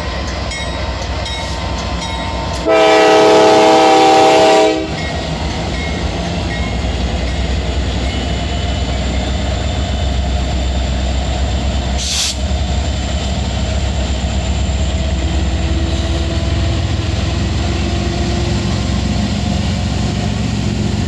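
A freight locomotive's Nathan K5LA air horn sounds one loud blast of about two seconds, a few seconds in, over the steady noise of a passing Norfolk Southern freight train. A single brief sharp noise comes about twelve seconds in.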